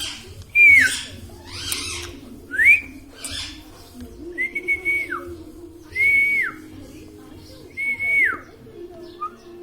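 Five clear whistles. Most are held briefly and then slide down in pitch; one slides up. A few harsh, raspy bursts come in the first few seconds.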